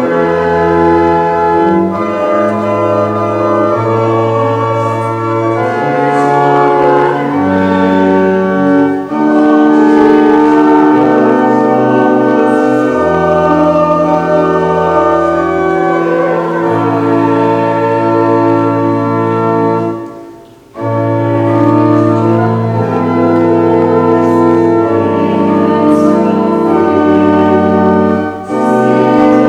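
Church organ playing slow, sustained chords over long held bass notes, with a brief break about twenty seconds in before the chords resume.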